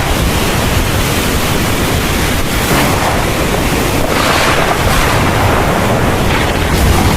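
Heavy rain pouring in a thunderstorm, a dense steady hiss that swells briefly about three seconds in and again a second later.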